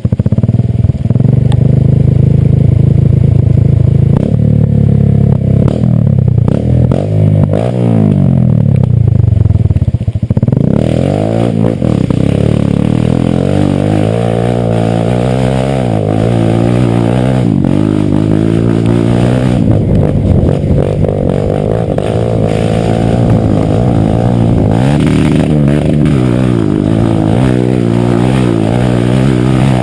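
Motorcycle engine running close by, revving up and down over and over as the rider works the throttle and gears on a dirt trail. About ten seconds in, the sound changes abruptly and becomes brighter and busier.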